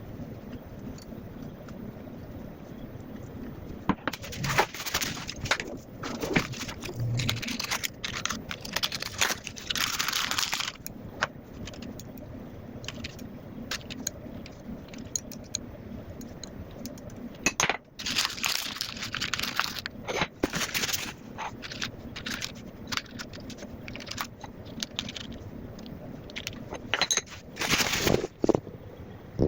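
Irregular bursts of scraping, rustling and clattering handling noise over a steady low hum, busiest about four to eleven seconds in, around eighteen to twenty-one seconds, and near the end.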